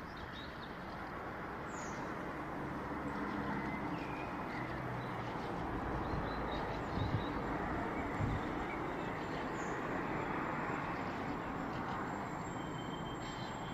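Birds singing at night: scattered short chirps and whistles, with a thin high held note near the end, over a steady low background rumble.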